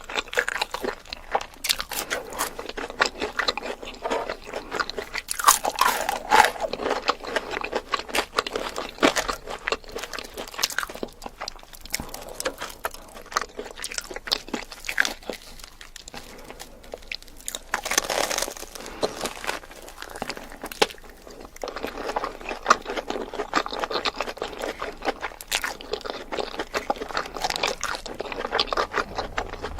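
A person biting and chewing crunchy food close to the microphone, a dense, irregular crunching that keeps going with only brief lulls.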